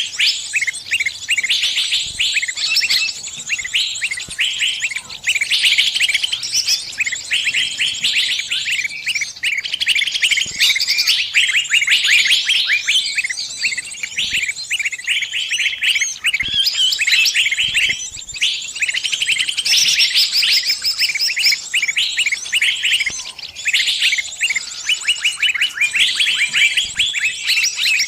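Small bird giving a continuous stream of rapid, high chirps and squeaks with barely a pause: the distress calls of a trapped bird calling its companions for help.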